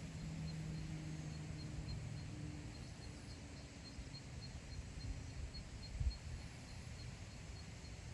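Wind blowing over open grassland, rumbling low on the microphone with a gust about six seconds in. Throughout, a faint high chirp repeats evenly about two or three times a second, and a low hum fades out within the first two seconds.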